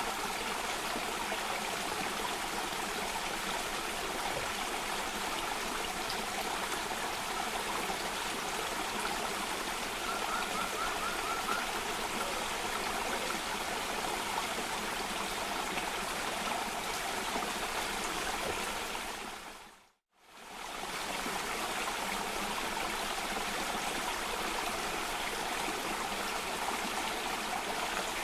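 Running water of a cascading stream, a steady even rush. About two-thirds of the way through it fades out to silence for a moment and fades straight back in.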